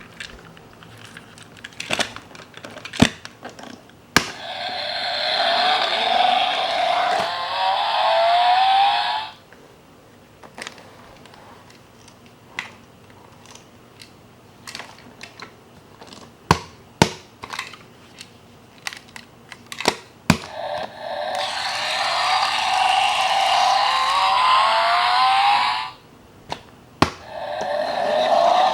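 Toy sports car's electronic engine and exhaust sound effect played through its small speaker, a revving sound rising in pitch that plays twice for about five seconds and starts again near the end. Sharp plastic clicks and clacks from the toy being handled and its buttons pressed come in between.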